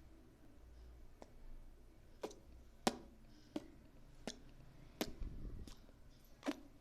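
A baby making sharp clicking sounds with its mouth, about one click every half to three-quarters of a second.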